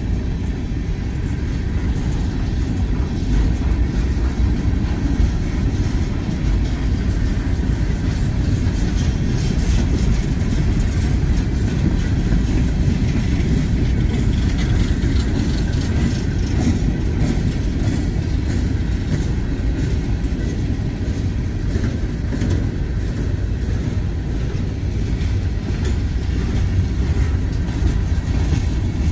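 Freight train cars, open-top gravel hoppers and boxcars, rolling past with a steady low rumble of steel wheels on rail.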